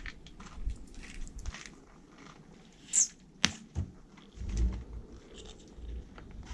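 Car tyre rolling over and crushing soft, crunchy objects: scattered crackling and squishing, a sharp snap about three and a half seconds in, then a heavier low crunch soon after.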